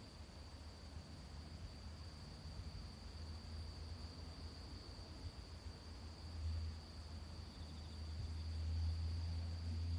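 A steady, high insect trill, like a cricket's, with a low rumble that grows louder in the last few seconds.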